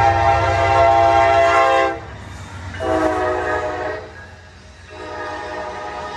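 Diesel freight locomotive's multi-chime air horn blowing three blasts: a long one that stops about two seconds in, a shorter one a second later, and another that starts near the end. A steady low rumble from the locomotive runs underneath.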